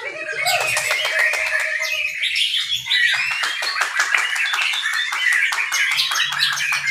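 Several caged songbirds singing over one another at a songbird contest: a dense, unbroken run of rapid chirps, trills and sharp clicking notes.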